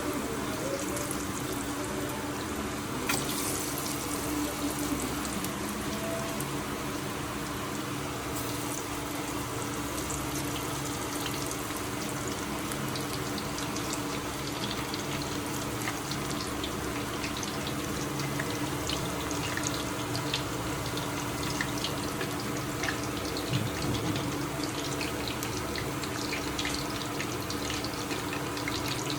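Steady running water, like a tap running into a sink, with scattered small clicks and a steady low hum underneath.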